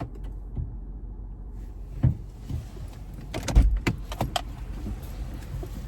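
Clicks and knocks of handling inside a car over the car's steady low rumble: a single knock about two seconds in, then a quick run of sharp clicks with a heavy thud around the middle.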